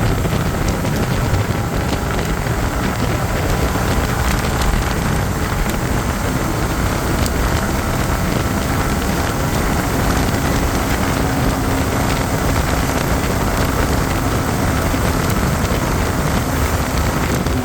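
Wind buffeting a helmet-mounted microphone on a moving motorcycle, a loud, steady rush, with the bike's engine droning faintly underneath.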